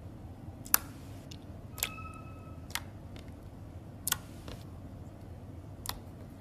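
Slime being handled: a few sharp, separate pops at irregular intervals, one about two seconds in carrying a brief squeak, over a low steady hum.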